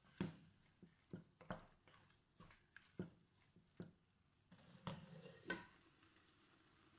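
A utensil stirring food in a pot: about ten irregular soft clicks and knocks with moist squishing, stopping about five and a half seconds in.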